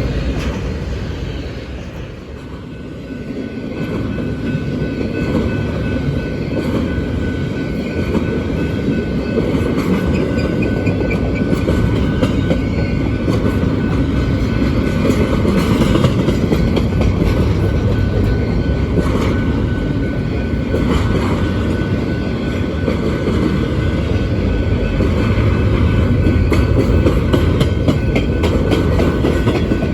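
Freight cars of a Union Pacific intermodal train rolling past: a heavy, continuous rumble of wheels on rail with rapid clicking over the rail joints and a thin steady whine above it. There is a brief dip in loudness about two seconds in.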